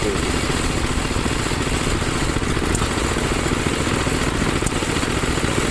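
Small gasoline engines running steadily, with a fast, even putter.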